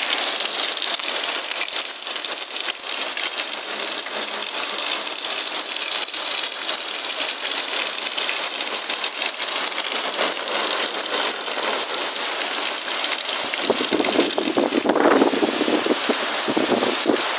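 Heavy downpour: rain falling steadily and hard on roofs, paving and trees, with run-off streaming from the roof edge. The rush swells louder and fuller about three-quarters of the way through.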